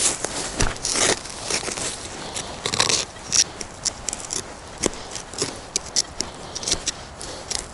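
Dry forest-floor litter crackling and crunching in many short, irregular snaps, as leaves and twigs are trodden or disturbed.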